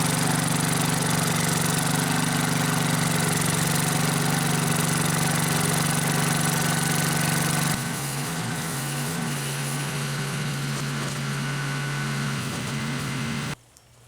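Gravely walk-behind tractor engine running steadily under the rotary plow. About eight seconds in it drops to a quieter, lower running, and it cuts off abruptly shortly before the end.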